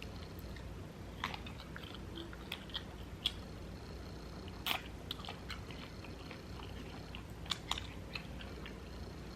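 Close-miked eating: a person chewing and biting food, with many short crisp clicks and crunches, the sharpest about three and five seconds in.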